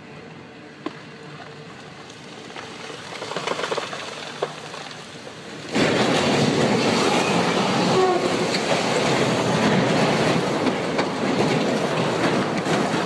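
A train approaching and then passing close by: a faint rumble grows over the first few seconds, and a little over halfway through it jumps suddenly to a loud, steady rumble and rattle of wheels on the track.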